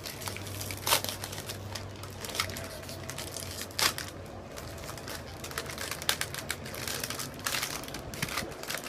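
Snack packaging crinkling as it is handled and opened, with irregular crackles throughout and louder ones about one and four seconds in.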